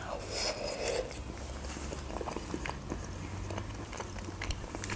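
A person taking a mouthful of soft baked julienne off a fork and chewing it. A hissy bite fills the first second, then comes quiet, wet chewing with faint scattered mouth clicks.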